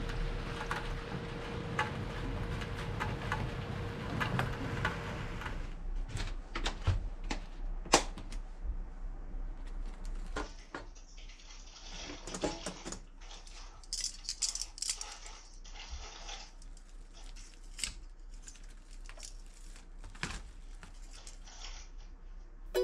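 Everyday handling sounds: a stretch of steady noise at first, then scattered small clicks, taps and scrapes with brief hissing passages.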